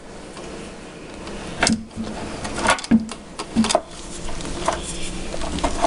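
A series of sharp clicks and knocks from a cupboard door's European (concealed) hinges and the door being handled, as the hinges are worked and fitted back in place, about seven in all, irregularly spaced.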